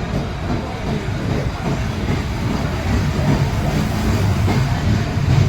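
Indian Railways train running past, a loud steady rumble of wheels on the track that grows a little stronger near the end.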